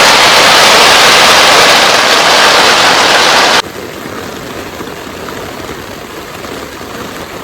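Torrential rain pelting a Bundok Solo Dome tent: a loud, even downpour noise that cuts off abruptly about three and a half seconds in, leaving a quieter steady rain hiss. The rain is beyond the tent's waterproof rating, and water is getting inside.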